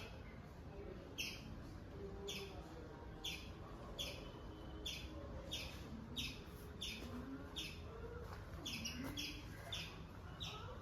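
A bird repeating a short, high, falling chirp about three times every two seconds, with fainter lower calls in the background.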